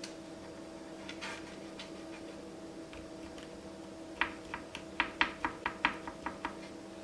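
A quick run of about a dozen small, sharp clicks over roughly two seconds, from seeds crackling and clicking as a hole is poked through a hardened birdseed cookie.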